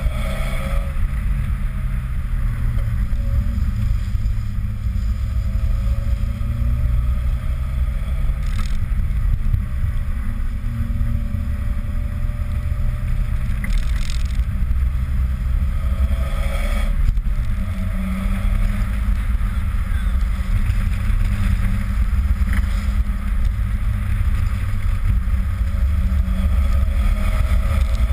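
2000 Toyota Celica GT's four-cylinder engine running at low, steady revs as the car drives slowly, with a heavy low rumble. About two-thirds of the way through there is a short noisy flare and the engine note shifts.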